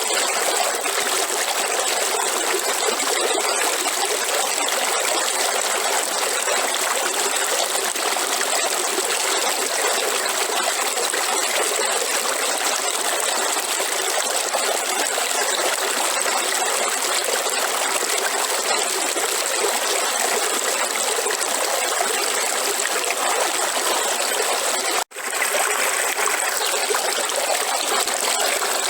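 River water flowing steadily, with a split-second cut-out near the end.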